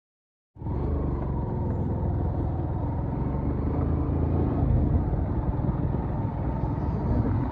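A road vehicle running steadily with a low rumble, cutting in abruptly about half a second in after dead silence.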